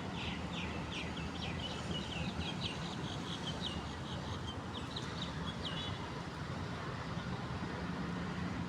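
A small bird singing a quick series of short high notes, about four a second, that stops about five seconds in, over a steady low rumble.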